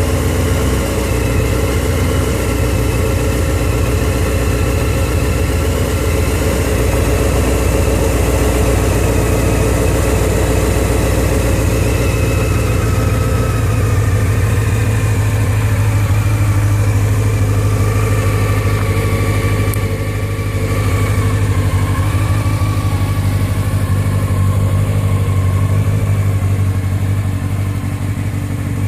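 2002 Honda CBR600 F4i's inline-four engine idling steadily as it warms up after a cold start.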